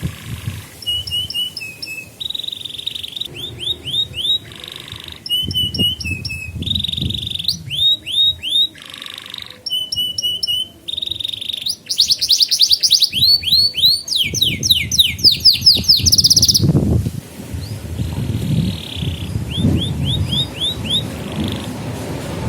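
Domestic canary singing a training song: one run after another of fast, evenly repeated falling chirps and trills, changing phrase every second or two and loudest a little past the middle. A low background rumble sits underneath in the second half.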